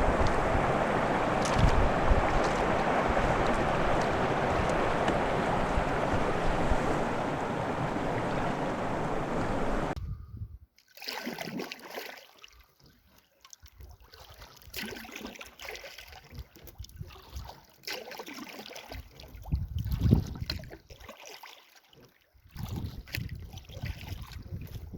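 Steady wind noise on the microphone with water for about ten seconds, then an abrupt cut to a quieter stretch of irregular splashes and drips from a double-bladed paddle dipping into lake water beside a canoe.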